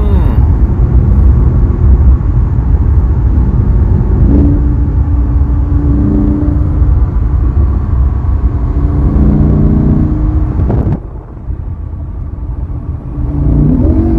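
Sports car engine running under way over a heavy low road rumble, holding a steady pitch for stretches. The sound cuts off abruptly about eleven seconds in and returns quieter, then rises in pitch as the engine revs near the end.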